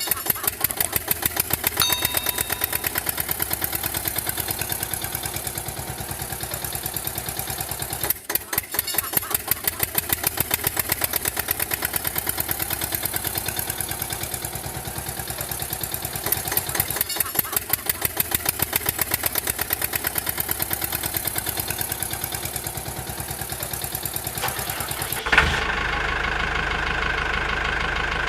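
An engine running with a fast, even beat. About 25 seconds in, a click is followed by a different, steadier engine sound with a higher whine.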